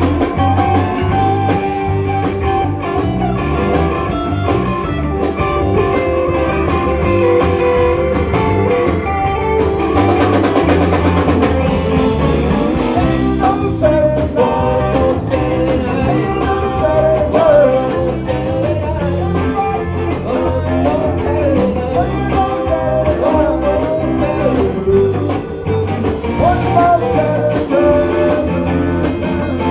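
Live rock band playing an instrumental jam: electric guitar lines winding over bass and drum kit.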